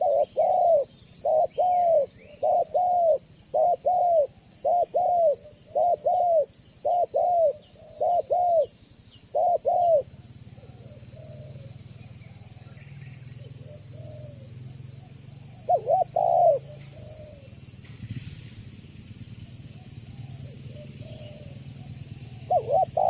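Spotted dove (tekukur) cooing: a steady run of short paired coos, about one pair a second, for the first ten seconds, then it stops and gives two more short coo groups later on.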